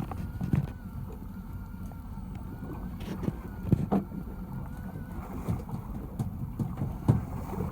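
Small fishing boat at sea: a steady low rumble with wind, and a few sharp knocks on the hull or deck, about four in all.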